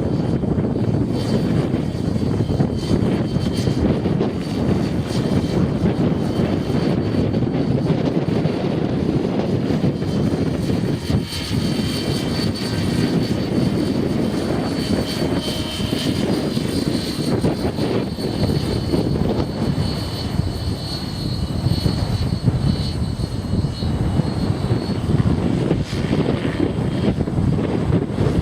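Align T-Rex 600E Pro electric RC helicopter in flight: its motor and rotor give a high steady whine under heavy wind buffeting on the microphone.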